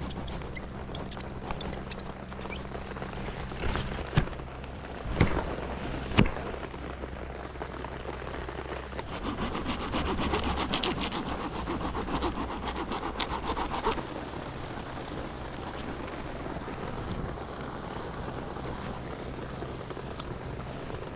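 Firewood being handled: a few sharp cracks over the first six seconds, then about five seconds of rasping wood rubbing, and a steady quieter background after that.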